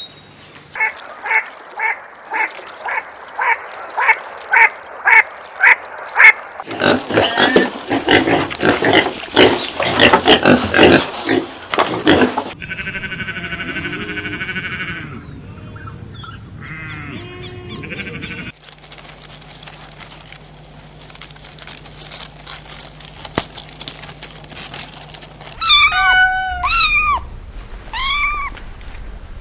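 A string of animal calls: first about a dozen evenly spaced squeals, then a dense run of cries. Near the end come newborn kittens mewing, with high cries that rise and fall.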